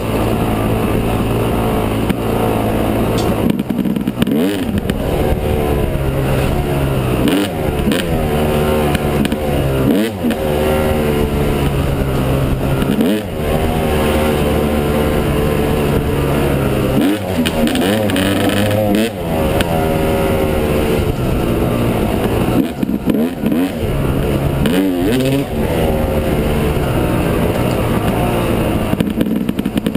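Yamaha 250 dirt bike engine being ridden, revving up and easing off over and over, its pitch rising and falling every second or two.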